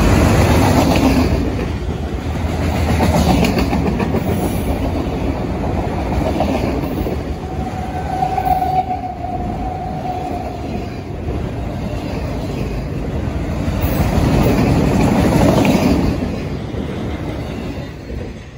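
Enclosed autorack freight cars rolling past at speed: a steady rumble and clatter of steel wheels on rail that swells and eases as the cars go by. It falls away near the end as the last car passes.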